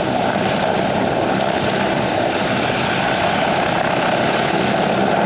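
Aircraft engine noise at an airshow, a loud steady drone without a break.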